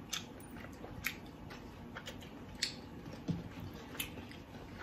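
Close-up eating sounds of seafood being chewed: soft wet mouth smacks with a handful of sharp clicks scattered through.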